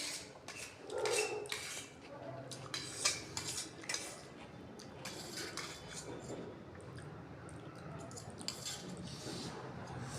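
Cutlery clinking and scraping against plates while food is eaten, in scattered short strokes.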